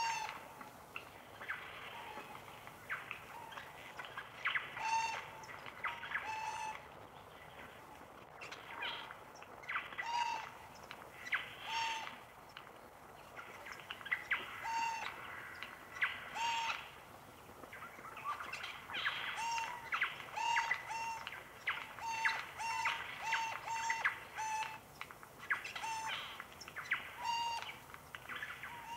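Birds calling: short, arched call notes repeated irregularly, some in quick runs, with sharp clicks between them.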